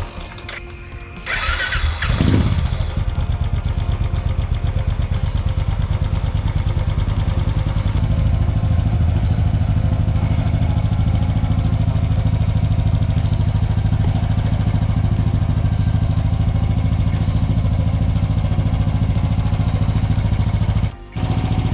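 Royal Enfield 350 single-cylinder motorcycle engine started on the electric starter, catching about two seconds in and then idling with a steady, even thump. The exhaust is a free-flow replica silencer with glass wool packing and no dB killer, which gives the deeper thump. The sound drops out briefly near the end.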